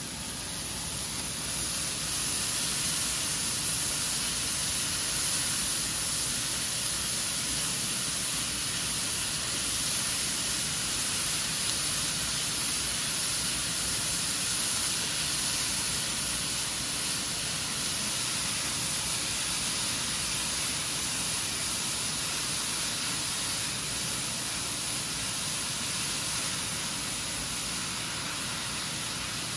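Cauliflower rice frying in oil in a stainless steel pot: a steady sizzling hiss that grows louder about a second in.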